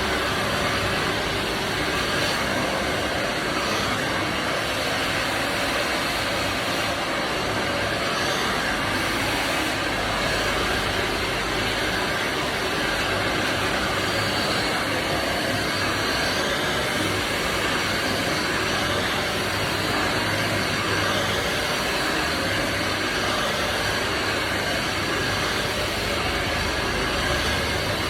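Handheld hair dryer running steadily, a continuous rush of blown air at an even level.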